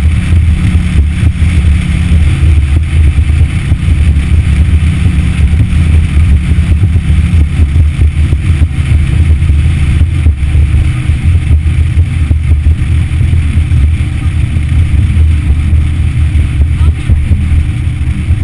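Yamaha F60 four-stroke outboard motor running steadily under way: a loud, constant low drone.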